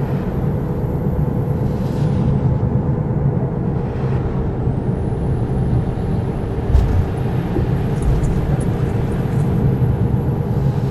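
Steady low rumble of a Scania K420 double-decker coach underway, engine and road noise together, with a single low thump about seven seconds in.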